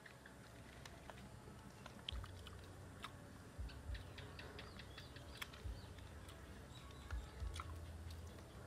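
Biting into and chewing a whole grilled rat: scattered soft clicks and smacks of eating, with intermittent low thumps.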